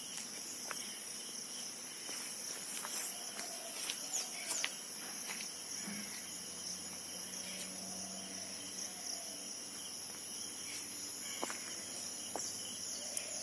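Steady, high-pitched insect chorus with a continuous drone, with a few short clicks and brief chirps scattered through.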